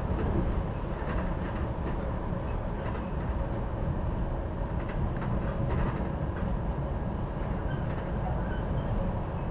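Metra commuter train running at speed, heard from inside a passenger car: a steady low rumble with occasional faint clicks.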